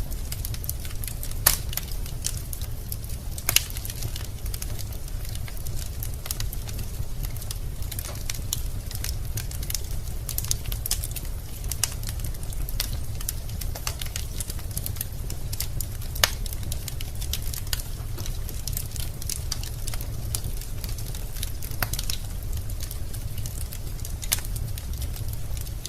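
Wood fire crackling in a fireplace: a dense run of small pops with a few sharper snaps, over a steady low rumble of the flames.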